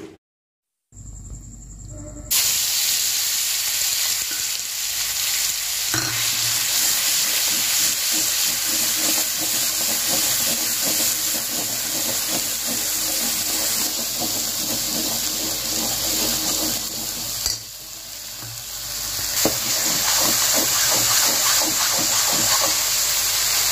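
Food frying in hot oil in a pan: a steady loud sizzle with quick scraping and stirring strokes. It starts about two seconds in after a moment of silence and drops off briefly once, near the end.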